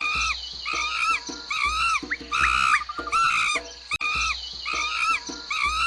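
Monkey calling: a rapid string of short, high, arching calls, several a second. The same stretch repeats about every four seconds.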